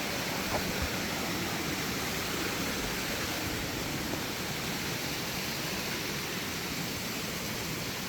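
A stream flowing: a steady, even rush of water.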